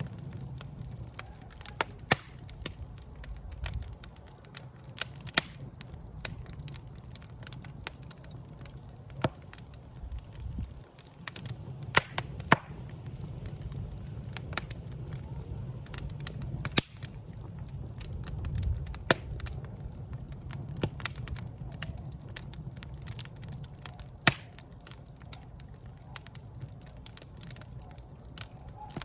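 Wood fire crackling in a fireplace: irregular sharp pops and snaps, a few of them louder, over a low steady rumble of the burning.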